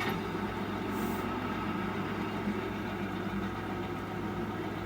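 Toyota Innova 2.5 J's 2.5-litre four-cylinder turbo-diesel engine idling steadily just after a start. A brief hiss about a second in.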